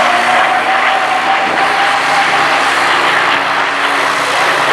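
North American P-51D Mustang flying a display pass, its Packard-built Merlin V-12 engine running steadily. Over the engine comes the Mustang's distinctive whistle, a high tone that rises slightly and fades out about two and a half seconds in.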